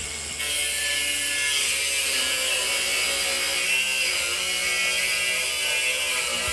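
Handheld power tool running steadily, starting about half a second in, working on a stuck bolt that was struck by the stump grinder's rotating grinding head.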